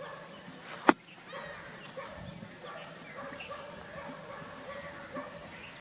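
Rural outdoor ambience: many small chirps over a steady high-pitched buzz, with one sharp click about a second in.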